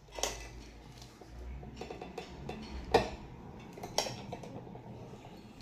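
Repaired impulse bag sealer being tried out: a sharp click of the sealing arm, a low hum for about three seconds, then more sharp clicks about three and four seconds in. The seal took, though it overheated the bag.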